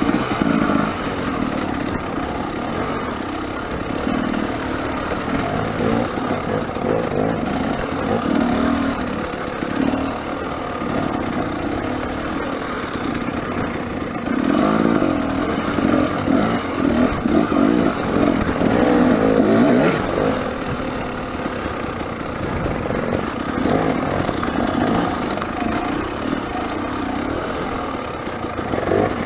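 300cc two-stroke dirt bike engine running under changing throttle, its note rising and falling irregularly as the bike is ridden, loudest a little past the halfway point.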